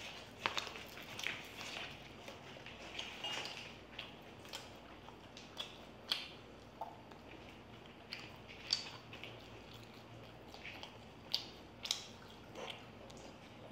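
Two people chewing noodles and Manchurian balls close to the microphone: wet mouth clicks and smacks at irregular intervals.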